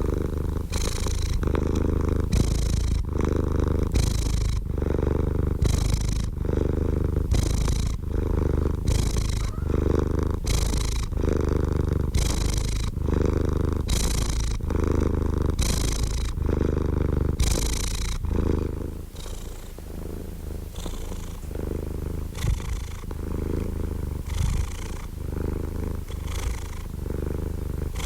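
Domestic cat purring close to the microphone: a steady low rumble that swells and eases with each breath, about once a second. The breath pulses grow softer and less even in the last third.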